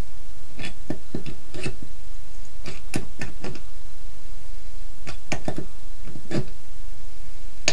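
Pliers turning a threaded plastic sink drain into a black ABS drain pipe, giving irregular sharp clicks and knocks over a steady low hum. The owner suspects the drain may be partly stripping the threads inside the plastic pipe.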